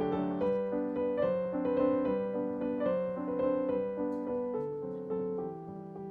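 Background piano music: a gentle melody of sustained notes over a steady accompaniment.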